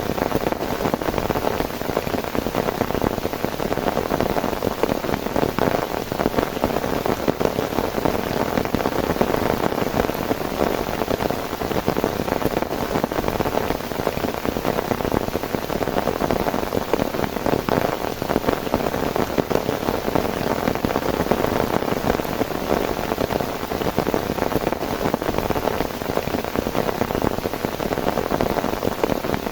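Heavy rain falling steadily, a dense, even hiss made of countless drop impacts.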